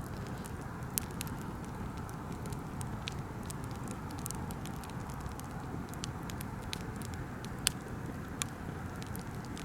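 Wood campfire burning, crackling steadily with scattered sharp pops, two of them louder: about a second in and near the end.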